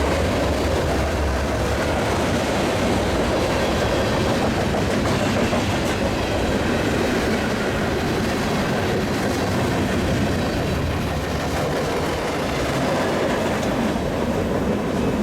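Union Pacific mixed freight train rolling past, a steady rumble of cars running on the rails.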